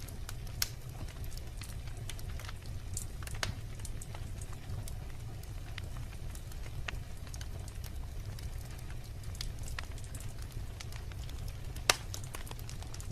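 Wood logs burning in a fireplace: a steady low rumble of the flames with scattered crackles and sharp pops, the loudest pop near the end.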